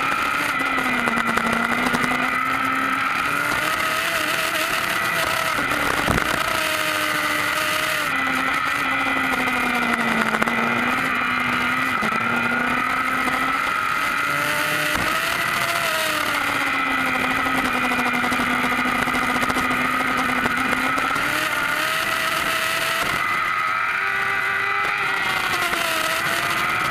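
Kawasaki ZX10R inline-four sportbike engine at racing revs, held in second gear, its pitch rising and falling as the throttle is opened and closed through tight corners. Two brief knocks come about six and fifteen seconds in.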